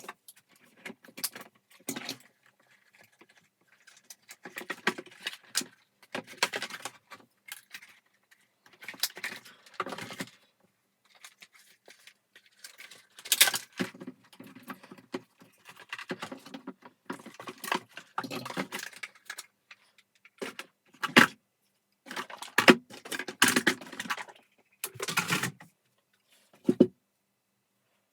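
Irregular clinking, rattling and knocking of small parts and tools being handled, in uneven bursts with short pauses.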